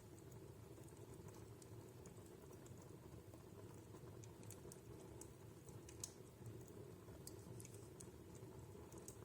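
Wood fire in a fireplace crackling faintly: scattered sharp pops and ticks over a low steady background, with one louder pop about six seconds in.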